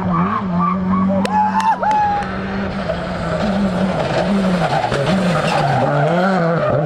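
Rally car engine revving up and down repeatedly as it works through a stage, with tyres skidding and a few sharp cracks about a second and a half in.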